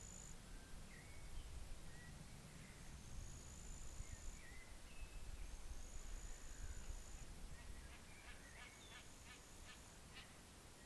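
Faint pondside ambience: a low wind rumble, a thin high note repeated about every two and a half seconds, and scattered short bird chirps, with a quick run of about six clicking calls near the end.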